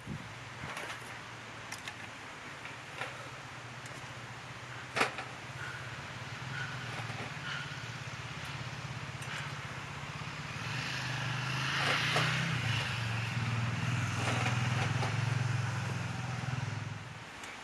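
A low, steady engine hum that grows louder about ten seconds in, then cuts off abruptly near the end, with a few sharp clicks over it.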